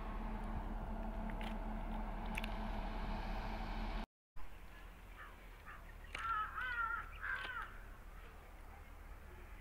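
Goods train wagons rolling past with a steady rumble, which breaks off abruptly about four seconds in. After that the rumble is quieter, and a few harsh crow caws come a couple of seconds later.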